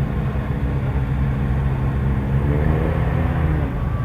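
A car engine pulling away at low speed, its note rising briefly about two and a half seconds in, then easing off.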